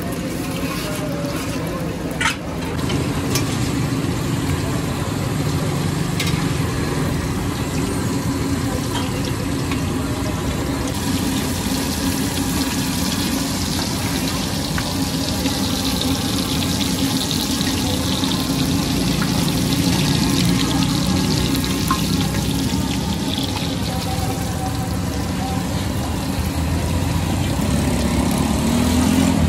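Tikki patties shallow-frying in oil on a large flat tawa griddle, a steady sizzle, with a low hum of background engines beneath. A single sharp click, as from a metal spatula on the griddle, comes about two seconds in.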